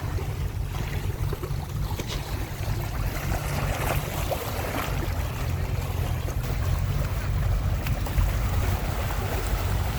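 Wind buffeting the microphone, a steady low rumble, over the wash of lake water at the shore.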